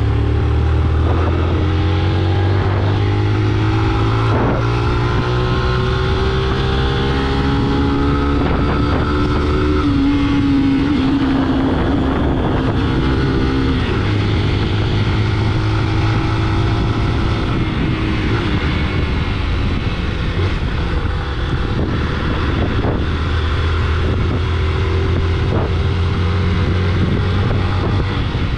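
A motor vehicle's engine running while under way, its pitch climbing steadily for about the first dozen seconds as it accelerates, then dropping back and running steadily, with road and wind noise underneath.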